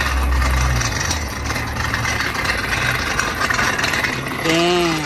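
An engine running steadily, heaviest in the low end during the first second, with a short exclamation from a man's voice near the end.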